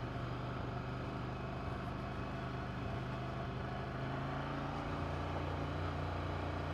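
Ducati Monster 797's air-cooled L-twin engine running steadily at low revs, its note dropping slightly about five seconds in.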